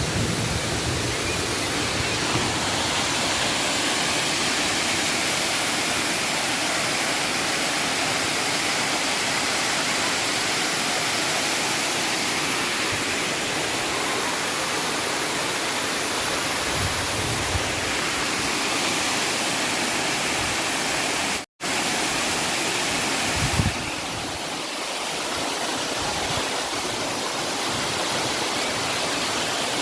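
Waterfall rushing: a loud, steady wash of falling water. It cuts out for an instant about two-thirds of the way through and comes back with a slightly different tone.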